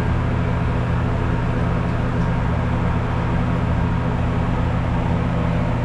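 Steady low hum and drone of a kitchen range running, unchanging throughout.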